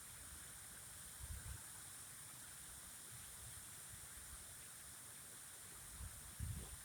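Faint, steady hiss of running water, with two brief low bumps: one about a second in, a louder one near the end.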